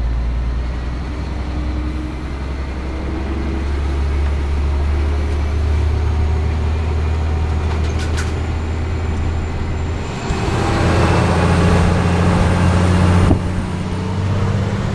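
Scania R420 truck's inline-six diesel engine running with a steady low drone. About ten seconds in, a loud hiss joins it for about three seconds and cuts off suddenly with a click.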